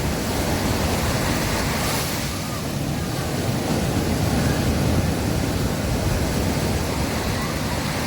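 Sea waves washing onto a beach: a steady rush of surf, heaviest in the low rumble.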